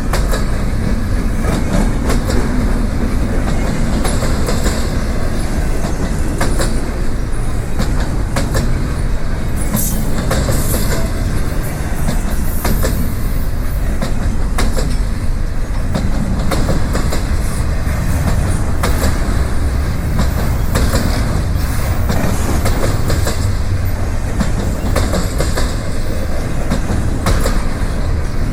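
Freight train rolling past at close range: a steady heavy rumble with the wheels clicking over rail joints again and again.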